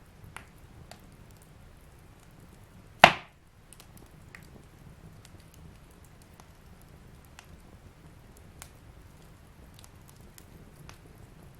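Wood fire burning in a fireplace, with scattered small crackles and one loud pop about three seconds in.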